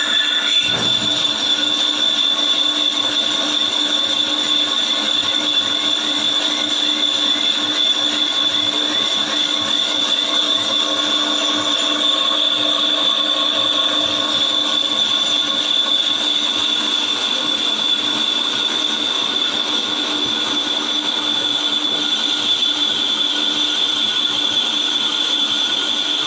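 Suzuki APV brake disc being turned on a lathe: the cutting tool on the cast-iron disc gives a steady, high squealing ring over the lathe's running.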